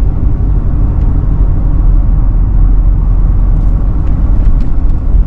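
A car running on the road: a steady low rumble of engine and tyres, heard from inside the vehicle, with a few faint ticks near the end.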